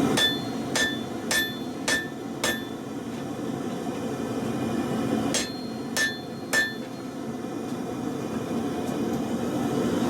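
Hammer blows on steel from a truck leaf spring being forged on an anvil: five ringing strikes about half a second apart, a pause of nearly three seconds, then three more.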